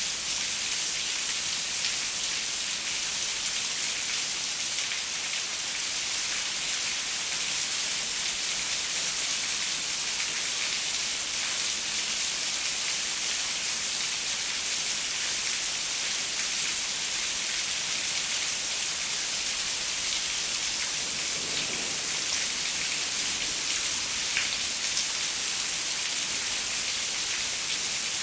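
Steady rain falling on a window pane: a dense, even hiss of drops with faint individual taps.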